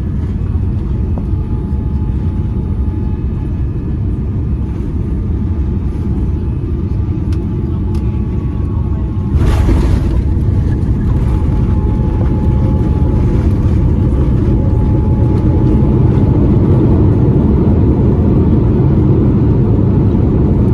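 Cabin noise of a Boeing 787-9 airliner landing: a steady low rumble, then about halfway through a sudden jolt as the aircraft touches down, after which the rumble is louder as it rolls down the runway.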